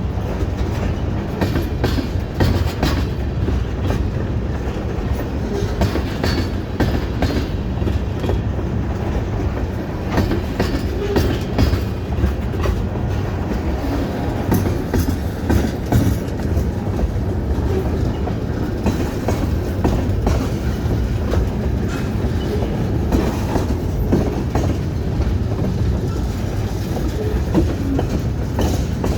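Hudson Bay Railway train cars rolling past, a steady heavy rumble with the clickety-clack of wheels over rail joints.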